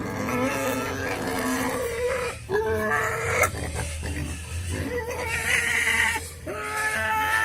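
Pigs squealing: a string of drawn-out, pitched squeals, one after another.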